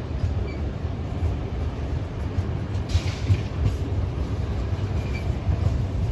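Freight train rolling past with a steady low rumble, and a brief metallic clank about three seconds in.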